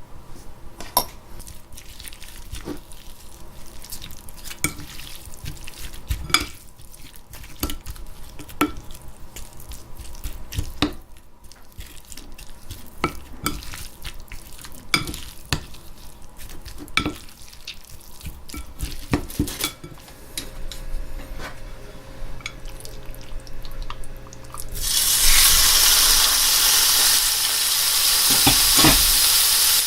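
A utensil stirring and knocking against a bowl, irregular clinks and scrapes, as okara batter is mixed. About 25 seconds in, a loud, steady sizzling starts as the batter goes into hot oil in a frying pan.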